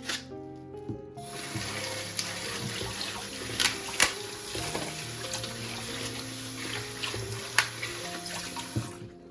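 Water running from a tap into a sink, turned on about a second in and off shortly before the end, with a few sharp clinks during the flow.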